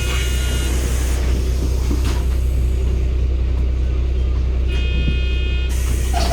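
Interior sound of a 2016 Daewoo New BS090 city bus with its Cummins ISB 280 PS Euro 6 diesel engine running, a steady low rumble. A short high electronic tone sounds twice, at the start and about five seconds in.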